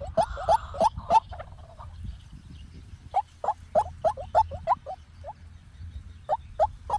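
White-breasted waterhen calling: runs of short, harsh, repeated notes at about three or four a second, broken by pauses of a second or two.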